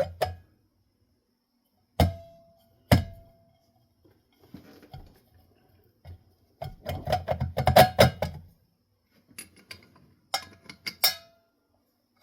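Metal ceiling fan parts being handled and set down: two sharp clinks about a second apart, each leaving a short ringing tone. A few seconds of rattling and clicking follow, and near the end there is another ringing clink.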